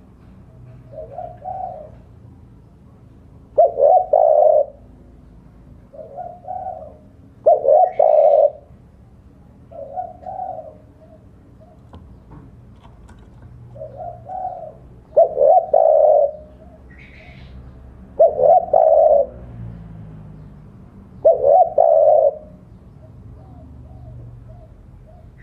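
Spotted dove cooing: phrases of low coos repeated every few seconds, softer coos alternating with louder ones, used as a call to challenge rival doves. A brief higher chirp is heard about two-thirds of the way through.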